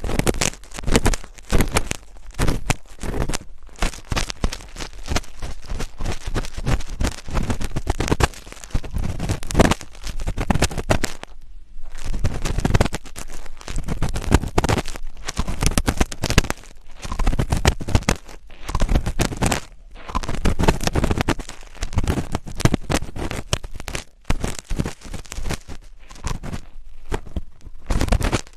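Close-miked ASMR scratching, a dense run of irregular crackles and scrapes with a short pause about eleven seconds in.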